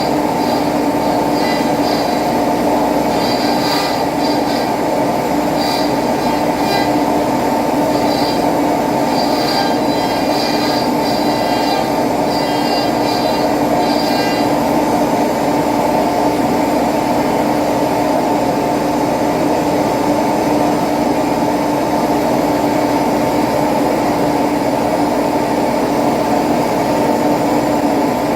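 CNC machine running its first job: a steady, loud mechanical drone, with short high whines coming and going through the first half that stop about halfway through.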